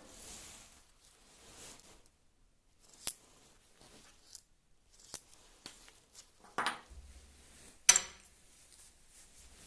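Scattered small metallic clicks and knocks of parts and tools being handled at a workbench, with a short scrape a little past six seconds in and the loudest sharp click about eight seconds in.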